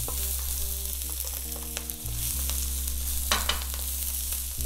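Aromatics sizzling in hot oil in an electric wok, with a couple of brief scrapes of stirring.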